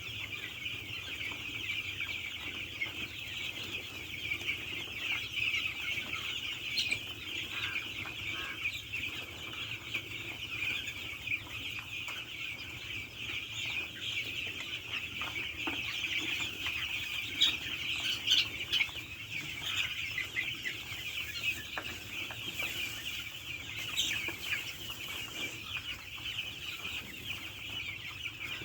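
A large poultry flock calling all at once: a dense, continuous chatter of chirps and clucks with a few sharper, louder calls.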